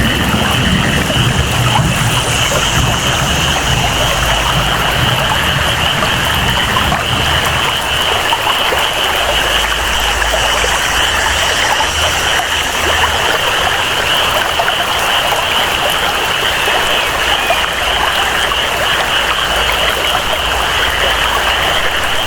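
Tropical rainforest ambience: steady rainfall and flowing water under a continuous high-pitched jungle chorus, with a low rumble in the first few seconds.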